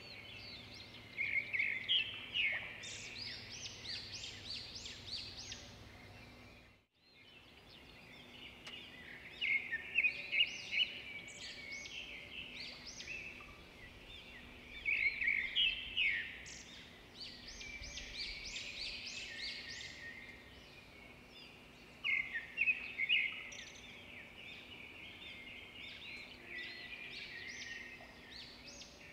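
Birdsong: several small birds chirping and trilling in quick, repeated phrases that come in clusters with quieter gaps, and the sound briefly cuts out about seven seconds in.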